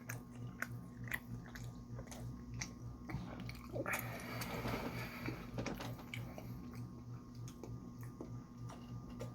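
Close-miked chewing and biting of food, with a wet click about every half second over a steady low hum. About four seconds in, a louder, longer noisy stretch lasts a second or so.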